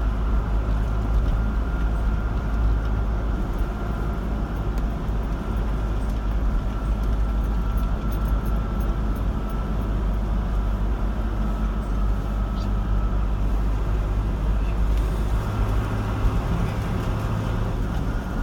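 Car driving along a road: steady engine and tyre noise with a heavy low rumble and a faint steady whine.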